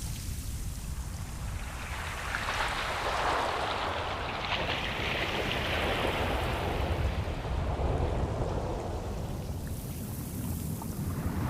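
Ocean waves. A wave washes in and swirls from about two seconds in, over a steady low rumble of surf.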